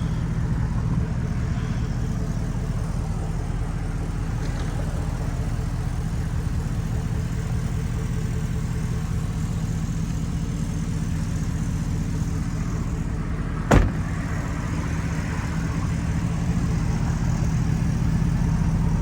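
GMC pickup's 4.8 Vortec V8 idling steadily through a Flowmaster dual exhaust, a constant low hum. One sharp knock about fourteen seconds in.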